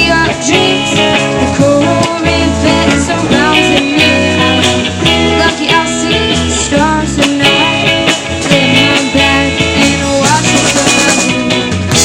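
Live rock band playing, a guitar lead with sliding, bending notes over a steady bass line.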